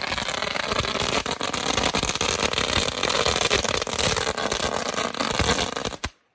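Fireworks going off in a rapid, continuous run of crackling pops, stopping abruptly about six seconds in.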